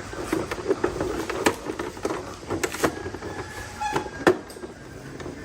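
Irregular metallic clinks and knocks, as of tools and motorbike parts being handled, over a low clatter.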